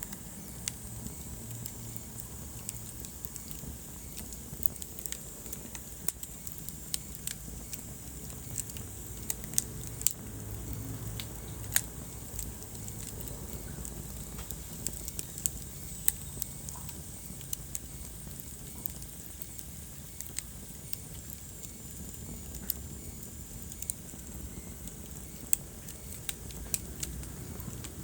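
Wood fire crackling: irregular sharp pops and snaps, a few of them louder, over a low steady rumble of the burning logs.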